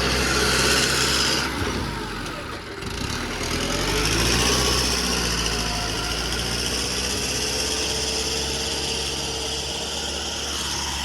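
Tractor engine running steadily. It dips briefly about two seconds in, then picks up again.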